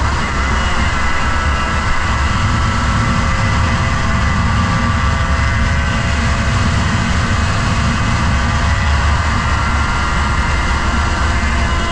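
Motorcycle engine running steadily at speed, its pitch drifting slightly, over a heavy low rumble of wind on the microphone.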